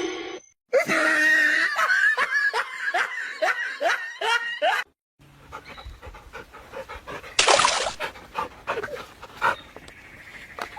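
A dog giving a quick series of short, pitched cries, about two or three a second, for about four seconds. After a sudden break come quieter scuffling sounds and one short noisy burst.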